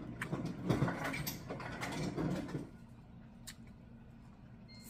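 A person eating close to the microphone: chewing and lip-smacking mouth noises with sharp wet clicks for the first half. After that it drops to a quieter steady low hum with a few soft clicks.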